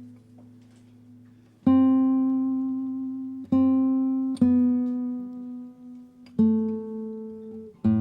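Instrumental opening of a song: after a quiet second and a half, single guitar notes are struck one to two seconds apart, each ringing out and fading, and a fuller chord comes in at the end.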